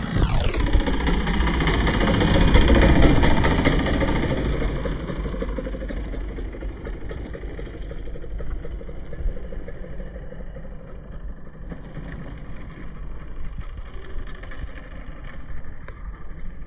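O.S. GT15 15cc two-stroke gas engine of an RC Piper Cub running in flight, loudest about three seconds in and then slowly fading.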